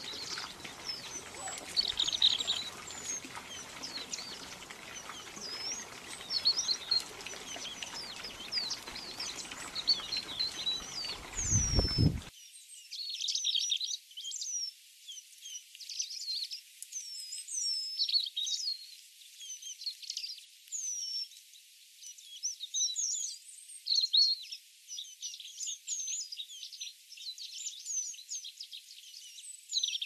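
Small birds chirping and whistling: many short, high, overlapping calls throughout. A low background hiss underneath stops abruptly about twelve seconds in, after which only the high calls remain.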